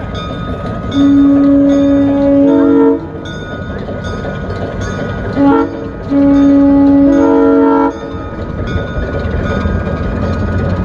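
Locomotive air horn sounding a long blast, a short toot, then another long blast, each a chord of several tones, over a steady rumble.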